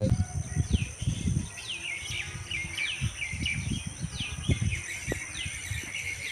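A run of short chirps, each falling in pitch, about two a second, over a steady high insect drone. Uneven low thumps and rumbles sit underneath, loudest in the first few seconds.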